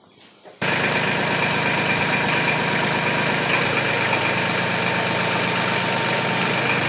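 Mahindra 1526 tractor's diesel engine running steadily, cutting in suddenly about half a second in.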